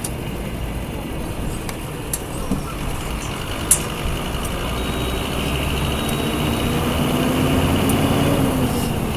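Scania F250HB city bus's DC09 five-cylinder diesel engine running, with a few sharp clicks in the first four seconds. The engine note climbs slowly from about six seconds in and drops back shortly before the end.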